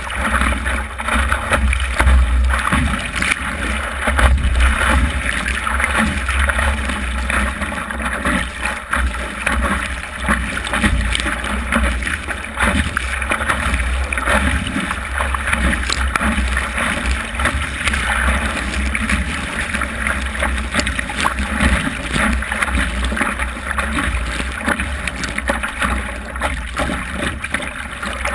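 Wind buffeting the microphone: a steady rushing noise with a heavy low rumble that never lets up.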